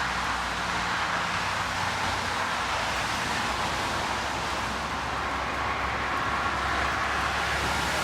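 Boeing 777 airliner's jet engines: a steady, even rushing noise, with a faint whine coming in near the end.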